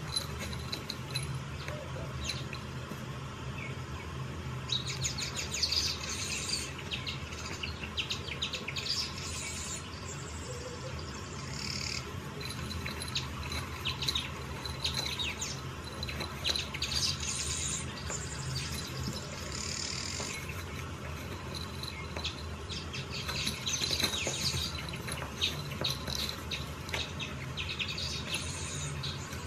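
Small birds chirping in clusters of quick high calls, coming and going in bursts, over a steady low hum.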